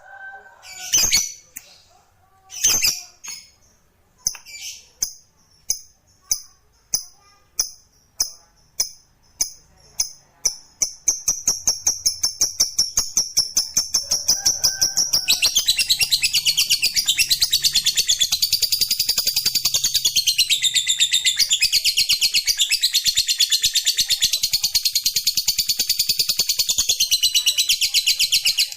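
Lovebird singing the long 'ngekek' chatter: single high chirps that quicken into a rapid run of notes about ten seconds in, then from about fifteen seconds a long unbroken high-pitched chattering trill.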